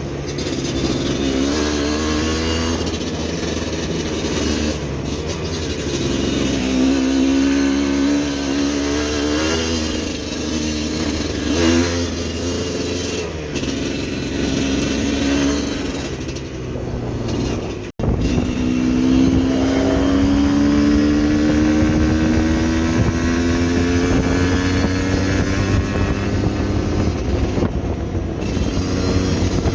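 Motorcycle engine running under load, its pitch rising and falling as the throttle opens and closes, with wind noise on the microphone. The sound breaks off for an instant about eighteen seconds in, then the engine climbs steadily in pitch again.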